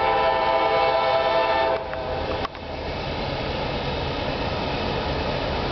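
Freight diesel locomotives' air horn sounding a chord that cuts off about two seconds in, followed by the steady low rumble of the GE locomotives working hard upgrade with a loaded coal train.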